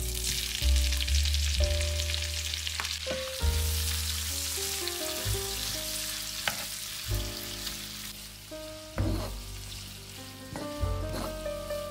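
Food frying in a pan, with a steady sizzle, a few light knocks, and background music with a heavy bass line underneath.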